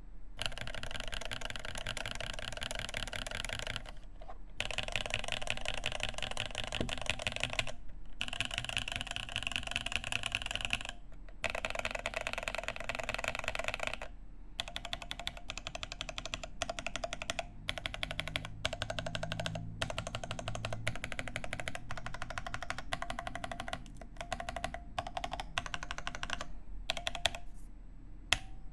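Typing on a Cake60 mechanical keyboard with lubed NovelKeys Cream linear switches on an aluminium plate and GMK keycaps. Rapid keystrokes come in runs of a few seconds with short pauses between, and the keystrokes come more spaced out after about halfway.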